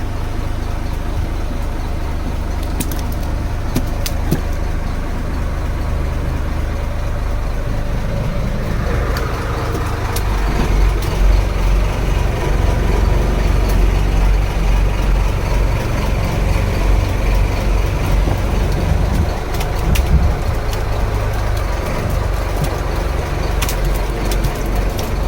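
A boat engine running steadily, a low hum that gets louder about ten seconds in, with a few scattered sharp ticks.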